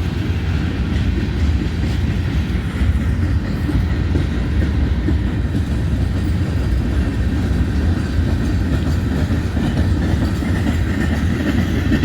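Empty covered hopper cars of a freight train rolling past, the wheels on the rail making a steady low rumble and clatter.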